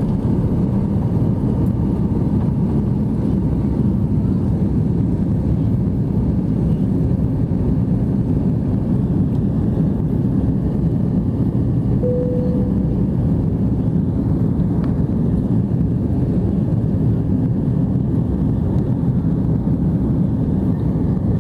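Steady engine and air noise inside the cabin of an Airbus A330-300, a low, even rumble that does not change. A single short tone sounds about halfway through.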